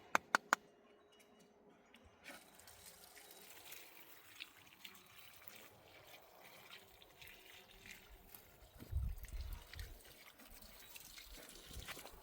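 Faint trickling and dripping water, with three sharp clicks right at the start and a low rumble about nine seconds in.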